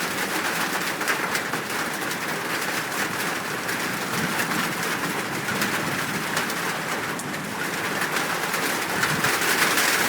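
Doves cooing over the steady hiss of rain.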